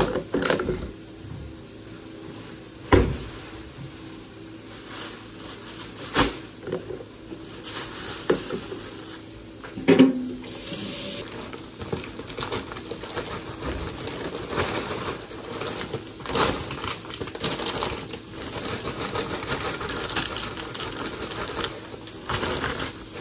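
Kitchen handling sounds as food is packed: a few sharp knocks of containers and dishes being set down, then a stretch of quick small clicks and rustling in the second half.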